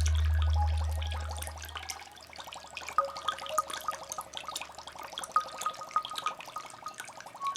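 Water bubbling and dripping in quick, irregular plinks. A low music drone fades out over the first two seconds.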